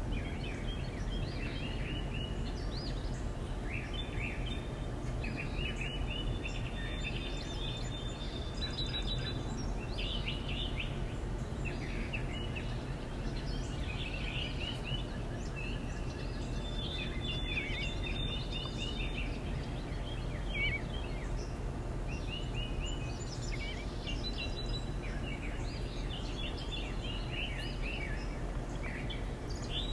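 Small backyard songbirds chirping and calling in quick, repeated bursts of high notes, several overlapping, over a steady low background rumble.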